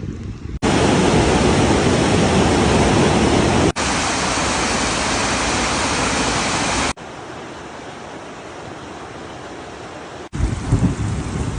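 Steady rushing outdoor noise, cut abruptly several times between sections of different loudness: loud and full for about six seconds, thinner and quieter for about three, then a gusty low rumble near the end like wind buffeting the microphone.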